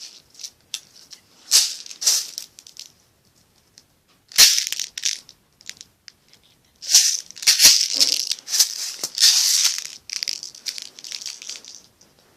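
Pins of a pin art toy rattling and sliding in their frame, in repeated bursts of a second or so with a few sharp clicks, longest and busiest in the second half.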